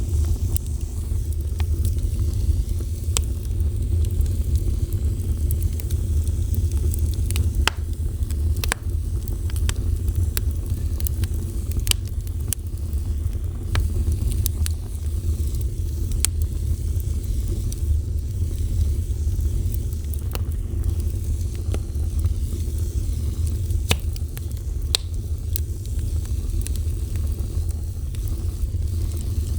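Wood fire burning, with a steady low roar of the flames and irregular sharp crackles and pops.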